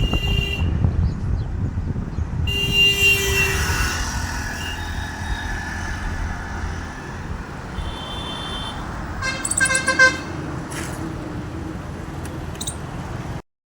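Road traffic heard from a moving motorcycle: a steady low rumble of engine and wind, with several vehicle horns honking in short blasts. The sound cuts off abruptly just before the end.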